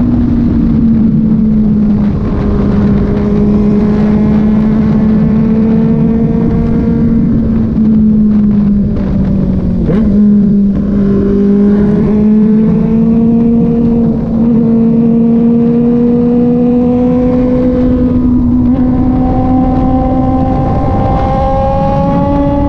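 Kove 450RR motorcycle's single-cylinder engine running at steady cruising revs. The pitch sags a little about halfway through, then climbs gently near the end.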